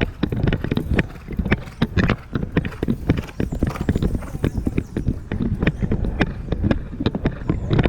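A ridden horse's hooves clip-clopping, a close, steady run of short knocks.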